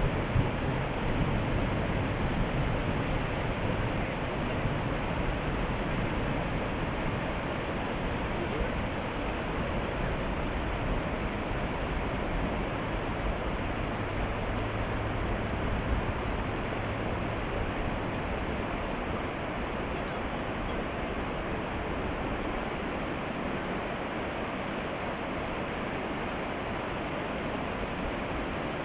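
Flash-flood runoff rushing steadily down a normally dry desert wash after a monsoon storm.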